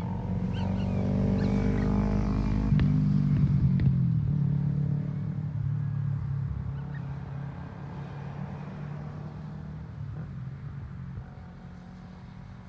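A motor vehicle's engine passing by, growing louder to a peak about three to four seconds in, then fading away.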